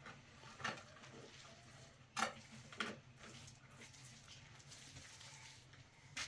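A few short sharp knocks and clinks, the loudest about two seconds in, over a low steady hum.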